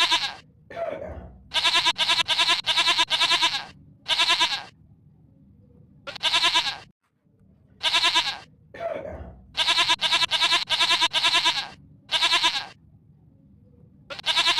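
Repeated bleating: about a dozen wavering calls, some singly and some in quick runs of three or four, with two lower, falling calls among them.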